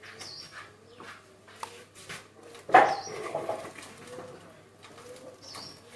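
Pigeons or doves cooing in low, wavering notes, with a short high call repeating every two to three seconds and one loud sudden noise about three seconds in.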